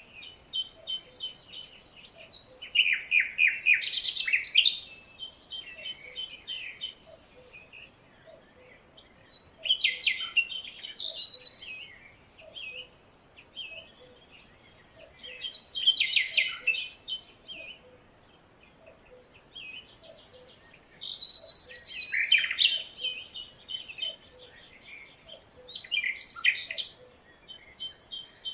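Songbirds singing: loud phrases of rapid chirping notes come about every five or six seconds, with softer calls between them and a faint regular ticking underneath.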